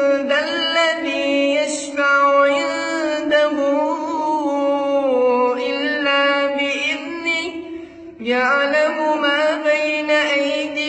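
A single voice reciting the Quran in a slow, melodic chant, drawing out long held notes with ornamented turns. There is a short breath pause about eight seconds in, and the voice cuts off abruptly at the end.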